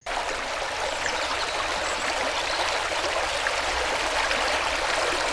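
Flowing stream water, a steady rushing and babbling.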